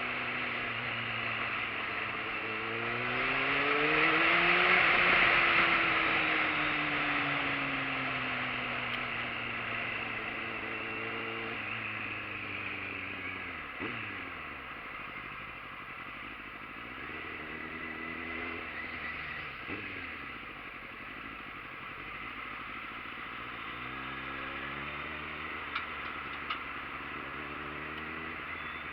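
Motorcycle engine running while riding, its pitch climbing and dropping several times as it speeds up and slows down. A louder stretch of rushing noise comes about four to six seconds in, and two short clicks near the end.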